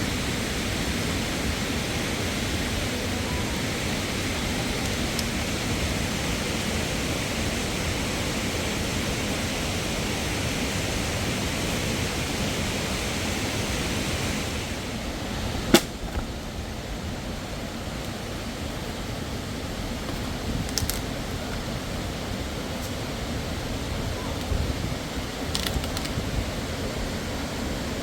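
Steady rush of falling water from a waterfall. About halfway it turns duller and a little quieter, and just after that there is one sharp click; a few faint clicks follow near the end.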